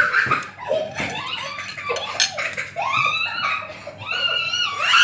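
Young girls' high-pitched voices squealing and laughing, with a short clink of dishes about two seconds in.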